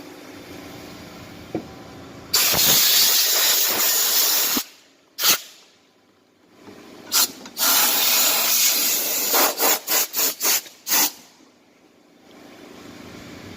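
Pressure washer spraying in bursts as the trigger is pulled and released: one long spray of about two seconds, a few short ones, then a quick run of short bursts near the end.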